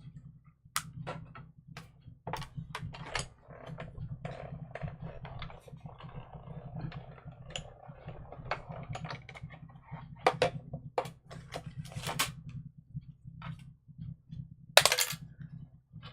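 Metal craft dies and cutting plates being handled and set up on a desk: many small clicks and taps, with a louder clattering rustle near the end, over a steady low hum.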